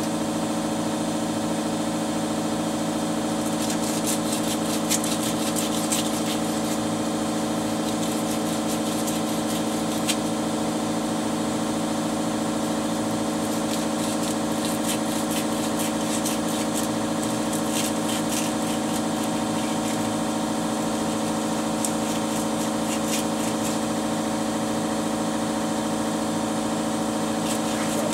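Small electric motor running steadily with a constant hum, with scattered scratchy contact sounds on top, as a part is worked down to take off its high spots.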